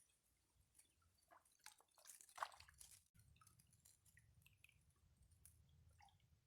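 Near silence: faint scattered small clicks and ticks, with a brief louder cluster about two seconds in.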